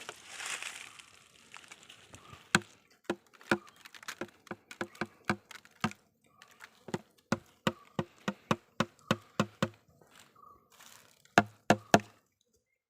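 An irregular run of sharp taps, about two to three a second, with a quick cluster of three loud ones near the end, over a faint buzz of stingless bees.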